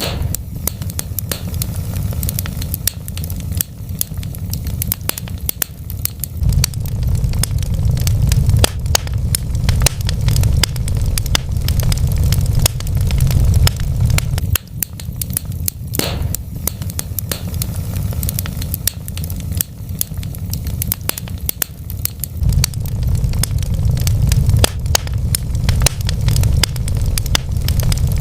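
Wood fire crackling in a fireplace: many sharp pops and snaps over a steady low rumble, with one louder pop about halfway through.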